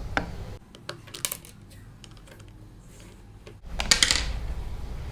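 Plastic toy aeroplane parts being handled: scattered light clicks and taps, then a cluster of louder clacks about four seconds in.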